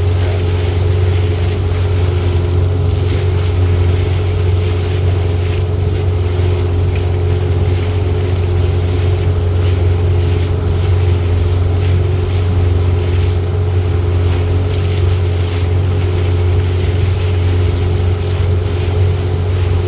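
A boat's motor running steadily under way, with a constant low hum and a steady higher tone over it.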